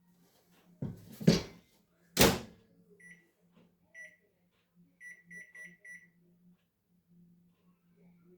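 Knocks as a glass bowl goes into a microwave oven, then a loud clunk about two seconds in as the door shuts. The microwave's keypad then beeps as it is set: a single beep, another a second later, then a quick run of five beeps.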